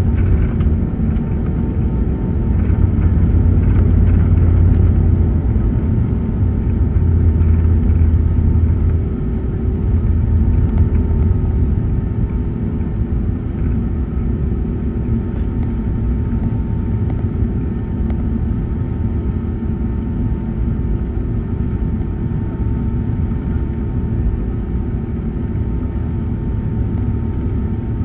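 Airbus A380 engines at takeoff thrust heard inside the passenger cabin: a steady deep rumble with a faint engine hum above it. The heaviest low rumble eases a little about twelve seconds in.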